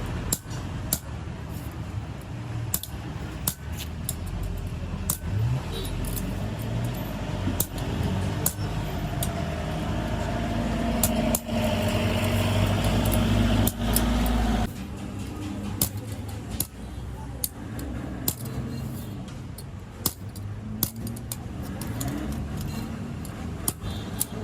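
Sharp metallic clicks and clinks at irregular intervals over a steady low rumble of motor vehicles. A louder low mechanical hum builds up about halfway through and cuts off suddenly.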